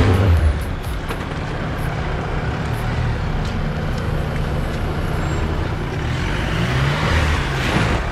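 Jeep Wrangler JK engine running at low revs as it crawls up a steep sunken lane, with the revs rising briefly near the end.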